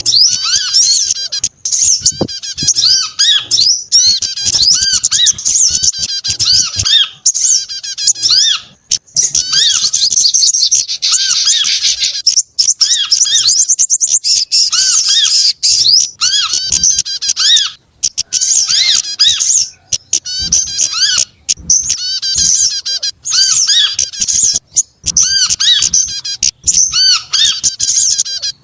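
Bird-luring recording of mixed small-songbird calls played continuously: dense, rapid, high squeaky chirps and short arching notes repeating in quick volleys, with a faster run of notes about ten seconds in.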